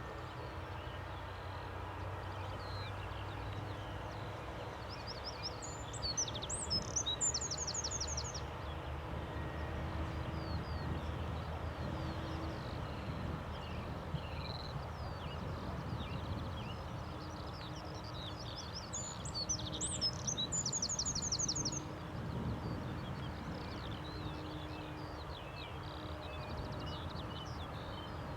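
A small songbird singing outdoors: two song phrases about thirteen seconds apart, each ending in a fast high trill, with scattered chirps between. Under it runs a steady low rumble with a faint hum.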